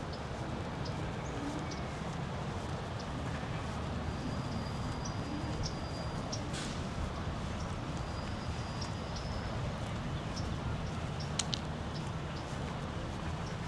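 Outdoor ambience: a steady low rush of wind and distant background noise, with scattered short, high bird chirps. Twice a thin, high whistle is held for a second or more.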